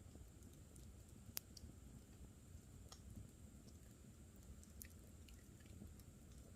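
Wood campfire crackling faintly over a low steady rumble, with a few sharp pops; the loudest pop comes about one and a half seconds in.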